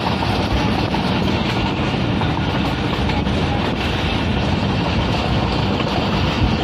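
Steady running noise of a moving passenger train, wheels on the rails, heard from the window of a carriage.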